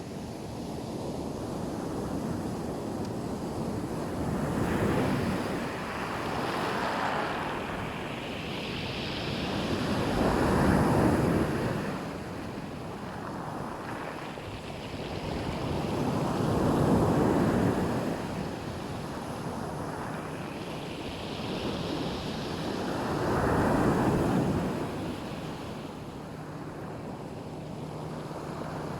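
Black Sea surf: waves breaking on the shore, the wash swelling and falling back about every six seconds.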